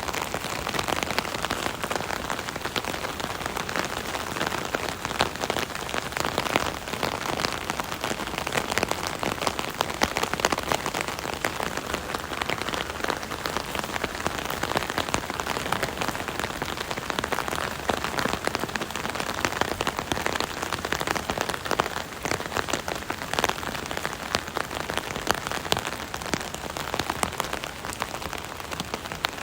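Steady rain drumming on an umbrella canopy overhead: a dense, even patter of countless small drop impacts.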